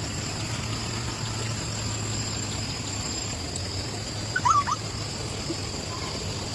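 A steady low hum, with a brief chirping bird call about two-thirds of the way through.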